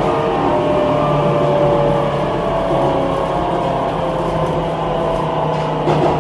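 Rusich metro train running, with steady rolling noise, several whining tones that slide slowly lower, and a low steady hum that sets in about a second in.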